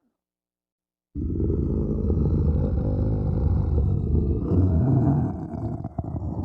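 Monster sound effect for the Kothoga creature: a deep, rough growl starting abruptly about a second in and holding loud and low, with a brief break near the end.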